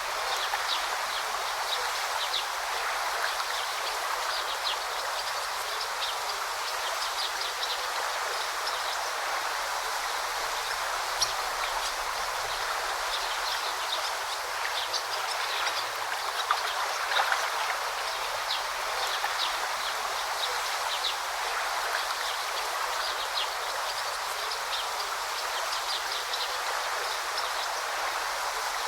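Forest stream flowing steadily over rocks: a constant rushing babble with many small, bright splashes.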